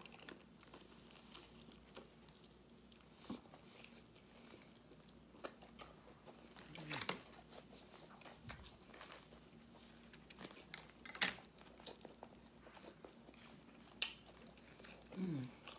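A person chewing and biting food, faint, with scattered crisp crunches; the sharpest come about seven, eleven and fourteen seconds in.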